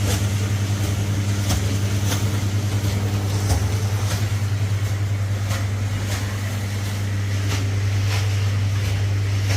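A motor running steadily with a low hum and a fast, even pulse, with occasional faint clicks.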